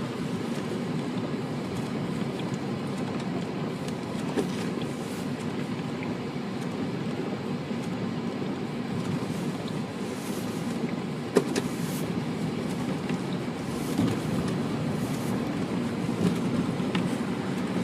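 Steady road and engine noise heard from inside a car driving on a snowy road, with a single sharp click about eleven seconds in.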